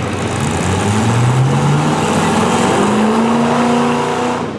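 V8 demolition derby car engines running and revving, their pitch climbing in several rises, over a loud, dense din.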